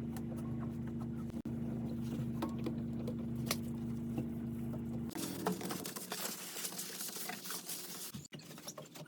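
A steady electric hum that cuts off suddenly about five seconds in, followed by rustling and light clicks of cleaning at the fireplace.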